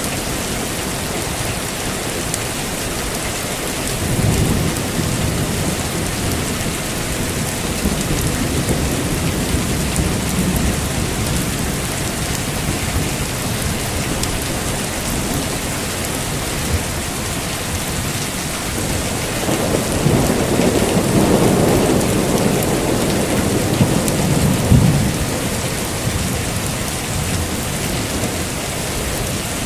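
Heavy rain falling steadily, with thunder rumbling twice: a low roll about four seconds in, and a louder, longer one from about two-thirds of the way through that peaks near the end of the rumble.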